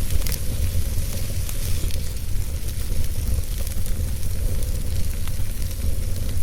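Wood fire burning in a fireplace: a steady low rumble and hiss of flames with a few sharp crackles, about one near the start and a couple more later on.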